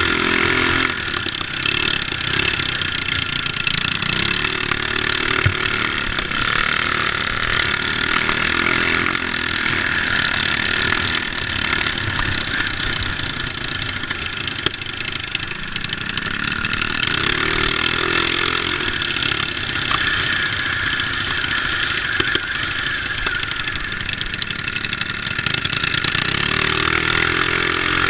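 Small mini bike engines running at racing speed, the engine note rising and falling again and again as the bikes speed up and back off.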